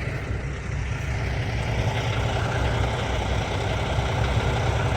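A vehicle's engine idling steadily with a deep, even sound.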